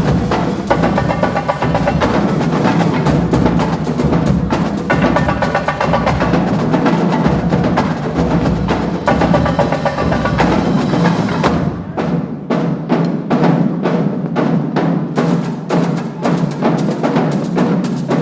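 Marching band drumline playing a fast cadence: rapid snare and tenor drum strikes over bass drums. About twelve seconds in, the deep bass drum part fades and the playing thins to separate, sharp stick strikes.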